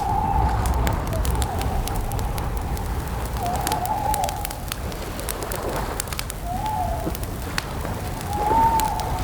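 An owl hooting four times, each a short held note, the last the loudest, over a crackling campfire.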